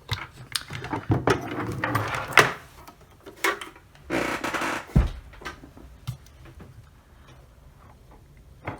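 Handling noise from a security camera being taken apart by hand: irregular clicks, taps and scrapes of its parts, with a longer scrape about four seconds in, then only occasional faint clicks.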